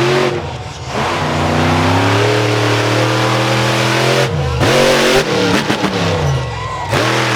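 Monster truck engine revving hard: it holds high revs for about three seconds, drops off, then climbs and falls again several times, with a sharp drop and rev-up near the end.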